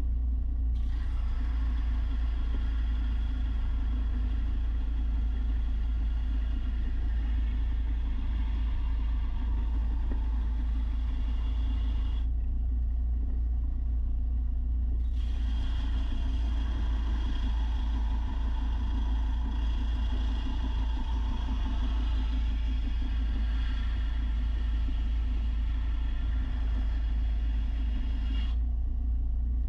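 Belt sander running with a steady low hum while a steel mower blade is ground against the sanding belt, a rasping grind layered on top. The grinding starts about a second in, breaks off for about three seconds around the middle, then resumes until just before the end.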